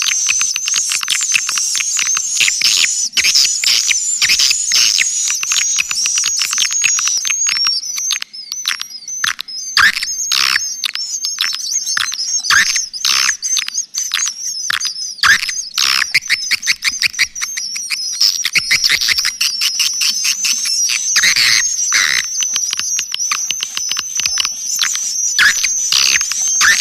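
Swiftlet lure call recording: a dense, continuous stream of many overlapping high chirps and twitters of edible-nest swiftlets, played to draw the birds into a swiftlet house. It has almost no low end.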